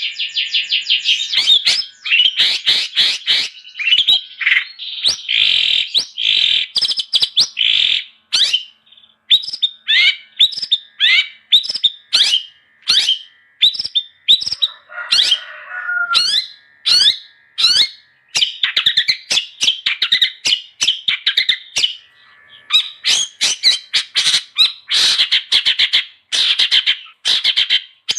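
Long-tailed shrike (cendet) in full, loud song: a varied stream of sharp chattering notes and squawks. Quick run-together trills near the start and again near the end, with more widely spaced single notes in the middle.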